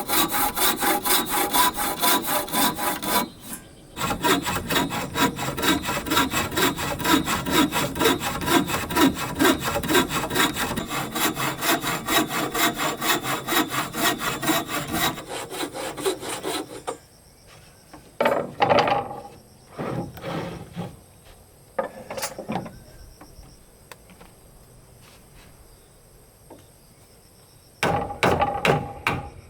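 Hand saw cutting wood in fast, even back-and-forth strokes. It pauses briefly a few seconds in and stops a little past halfway. A few scattered knocks of wood follow over a steady insect buzz, and then the sawing starts again near the end.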